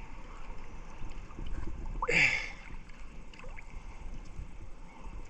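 Water lapping and sloshing. About two seconds in there is one short cry that falls in pitch.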